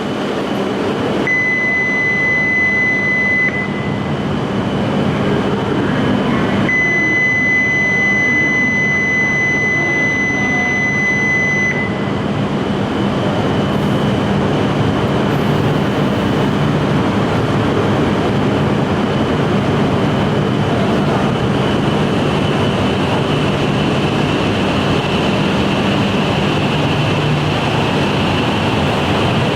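Shinkansen train, an E5 and E8 coupled together, running out of the station with a steady rumble and a rising whine. Over it a steady high electronic tone sounds twice, first for about two seconds and then for about five.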